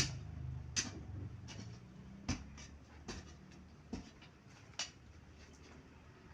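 A series of sharp knocks or taps at irregular intervals, roughly one a second, over a low steady hum.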